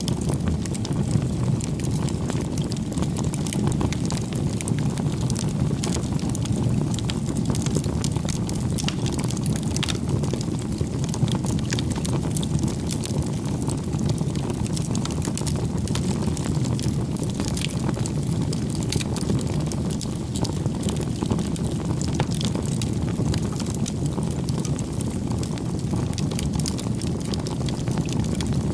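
Campfire burning: a steady low rush with scattered small crackles and pops of the burning wood.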